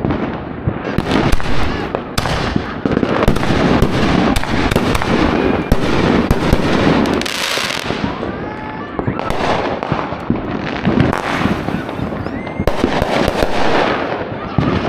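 Aerial fireworks bursting overhead in rapid succession: a continuous, overlapping barrage of bangs and crackling with no pauses.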